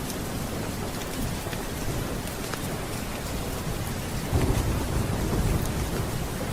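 Steady rain, with a low roll of thunder that swells about four seconds in and rumbles on almost to the end.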